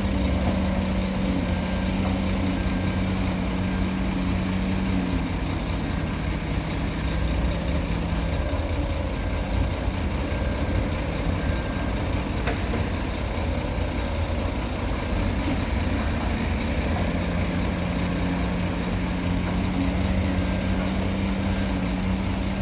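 Heavy diesel engines of earthmoving machinery (an excavator and dump trucks) running steadily. The engine note drops lower for several seconds midway and then comes back up.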